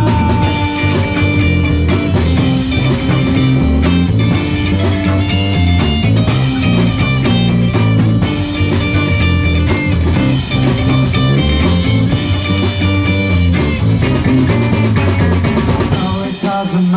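Live rock band playing an instrumental passage with electric guitar, bass guitar and drum kit, without vocals. The low end drops away briefly near the end.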